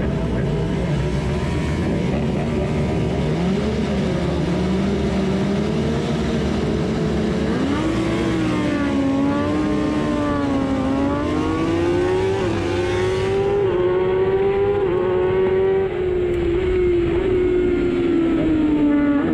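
Racing superbike engine heard from an onboard camera, its revs rising and falling steadily as the bike accelerates and slows, with a brief drop in level about sixteen seconds in.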